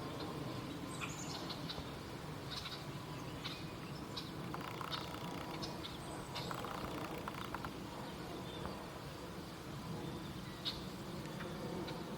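Birds calling with short, scattered chirps and chips, one brief falling note about a second in, over a steady low background rumble.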